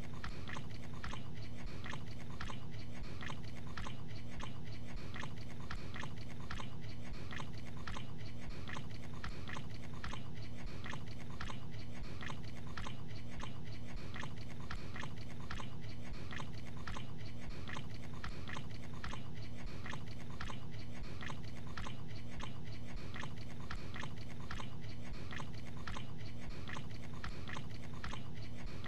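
A man chewing gabagool (capicola) in steady, even chews, about two a second, repeating without a break.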